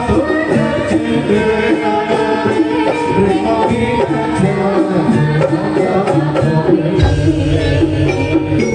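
Javanese gamelan music for jaranan: metallophones play a repeating melody over hand-drum (kendang) strokes. A deep low note enters about seven seconds in.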